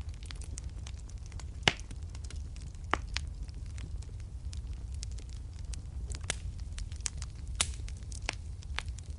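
Wood fire crackling in a fireplace, with irregular snaps and pops over a steady low rumble of the flames; two pops, about a second and a half in and near the end, are louder than the rest.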